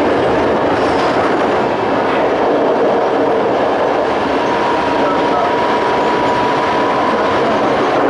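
Toei 5300 series electric multiple unit with a Hitachi-built Mitsubishi GTO inverter, running at speed: a steady rumble of wheels on rail with a faint steady whine.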